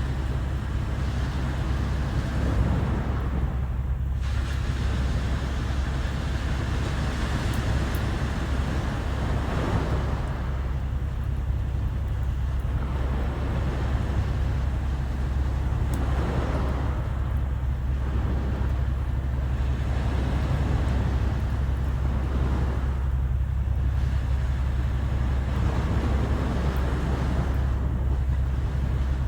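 Sea waves washing ashore in repeated swells every few seconds, over a steady low rumble of wind on the microphone.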